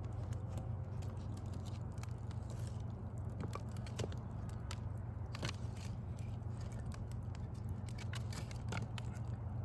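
Backyard wood fire crackling, with irregular sharp pops and snaps over a steady low background rumble.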